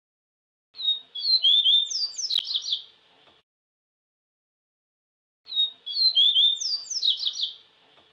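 Papa-capim seedeater (Sporophila) singing: two matching phrases of rapid, high twittering notes, each about two and a half seconds long, with silence between. The second phrase is cut off at the end.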